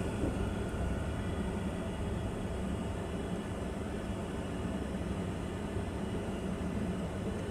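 Steady low rumble of a vehicle on the road.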